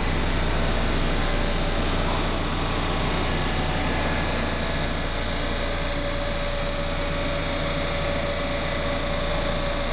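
JR West electric multiple-unit train pulling into the platform: a steady rumble of wheels on rail and running gear as it slows, with a thin steady whine coming in about halfway through.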